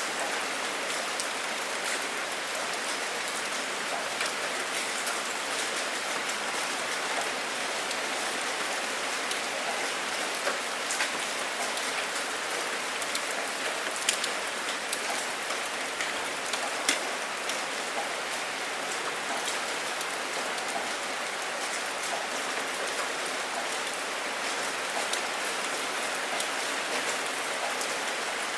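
Steady rain falling as an even hiss, with a few sharp, close drop hits standing out now and then, the loudest about halfway through and again a few seconds later.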